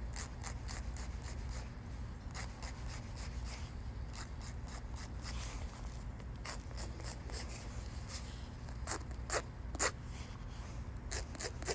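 Nail file rasping back and forth across a fake nail to shape it, in quick repeated strokes, with a few louder strokes near the end.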